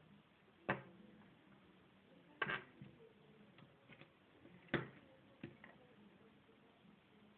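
Three sharp knocks about two seconds apart, with a few fainter ticks between them, over a faint low hum.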